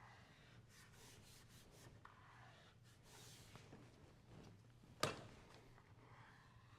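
Faint rubbing of hands pressing two glue-coated layers of a leather belt together, with one sharp click about five seconds in.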